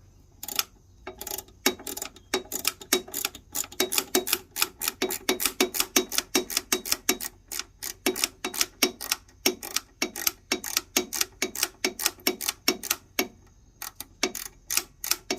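Small Blue Point quarter-inch bit driver ratcheting as a screw is worked, its pawl making sharp clicks about three to four times a second, with a brief pause near the end.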